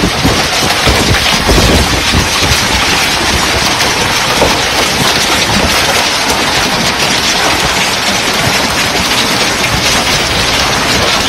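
Heavy storm rain hitting a car's windscreen and roof, a loud, dense, steady hiss with an uneven low rumble underneath.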